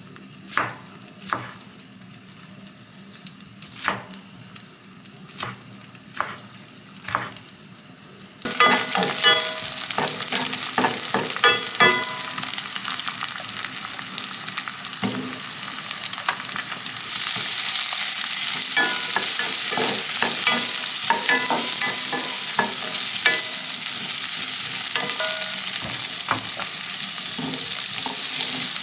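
A kitchen knife cuts through red bell pepper on a wooden cutting board, knocking about once or twice a second. A third of the way through the sound cuts suddenly to sliced garlic sizzling hard in hot oil in a frying pan, with a wooden spatula clicking and scraping as it stirs. Halfway through the sizzle gets louder, and onions and broccoli stems are stir-fried with the garlic.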